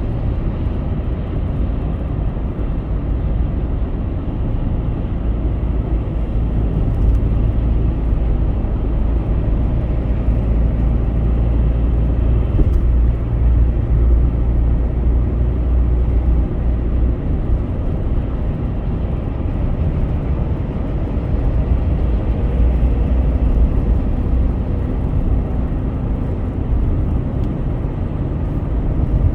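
A car driving at highway speed: a steady low rumble of road and engine noise.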